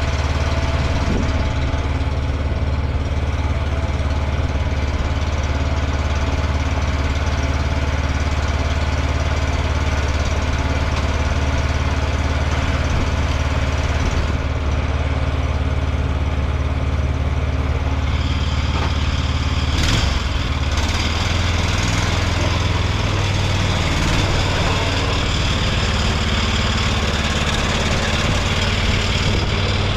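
Small tractor engine running steadily. About two-thirds of the way through there is a sharp knock, and the engine note changes and settles at a different speed.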